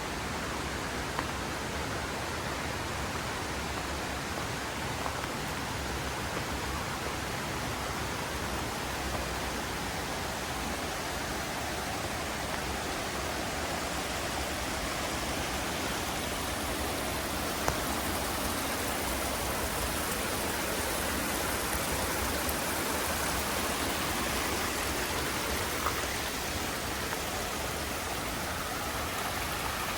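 Mountain river rushing steadily over rocks, with a few faint clicks near the microphone.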